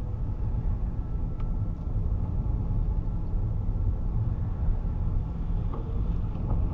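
A car's running engine heard from inside the cabin: a low, steady rumble.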